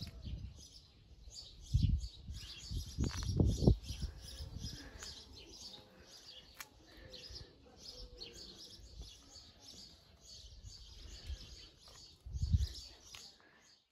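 Small birds chirping over and over, with a few louder low thumps, around two seconds in, three to three and a half seconds in, and near the end.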